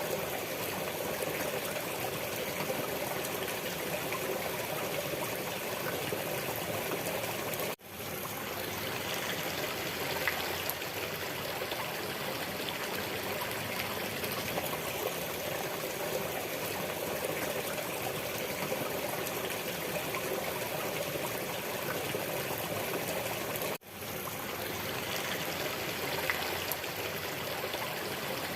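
Stream water flowing and trickling steadily. The sound cuts out for an instant twice, about eight seconds in and again about twenty-four seconds in, and swells quickly back each time.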